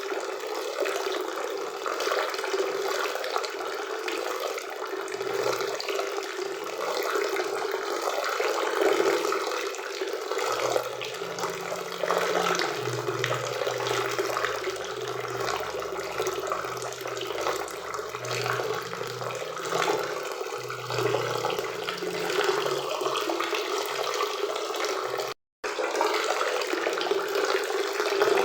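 Waterfall and river water rushing steadily. A faint low hum joins it for a stretch in the middle, and the sound cuts out for an instant near the end.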